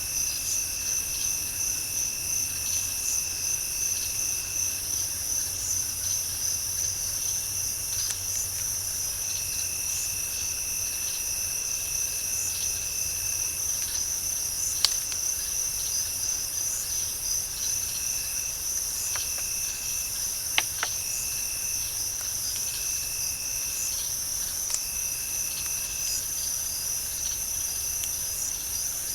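Night chorus of crickets and other insects: a steady high pulsing trill, with a lower trill switching on and off every few seconds. A few brief sharp clicks or knocks come through about halfway in, a close pair a little later, and one more near the end.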